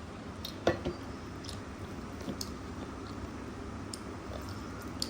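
Someone chewing food close to the microphone: small wet clicks and smacks, with a sharper click about a second in.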